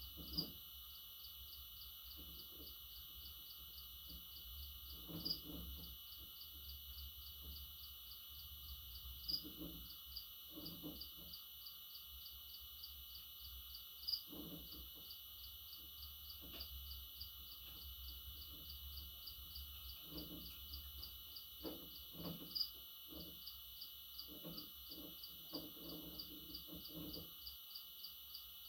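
Crickets chirping in a fast, even pulse, with a louder chirp every few seconds and short low sounds here and there.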